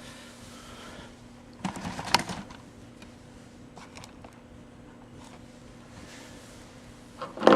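Handling noises: a short clatter of knocks about two seconds in and a single louder knock near the end, over a faint steady hum.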